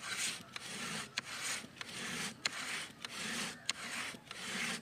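Rhythmic back-and-forth rasping strokes, about three every two seconds, with a sharp click after about every second stroke.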